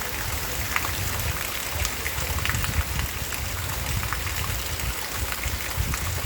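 Steady heavy rain falling, with scattered drop impacts and a rumbling low end from wind buffeting the microphone.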